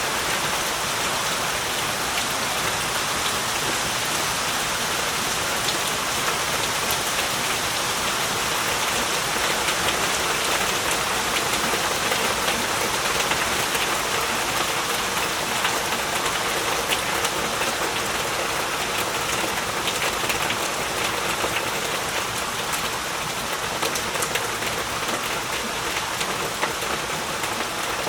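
Heavy rain falling steadily, a dense hiss of drops with many small individual splats.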